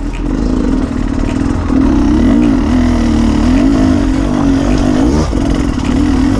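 Beta 300RR two-stroke single-cylinder dirt bike engine running under way, its revs rising and falling continually as the throttle is worked.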